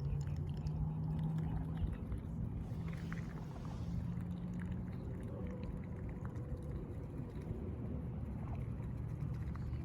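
A low, steady engine-like hum with a few faint ticks.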